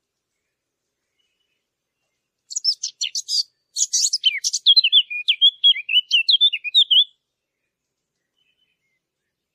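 A fig bird, a Sylvia warbler, singing one song phrase of about four and a half seconds. It opens with rapid scratchy notes and ends in a quick run of clear, warbling whistles.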